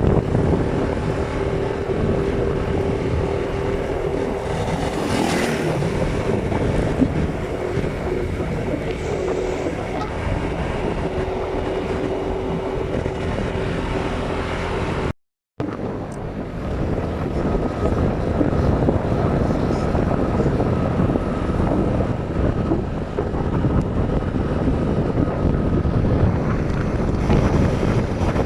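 Steady drone of a moving vehicle's engine with wind rushing on the microphone, broken by a brief dropout about halfway through.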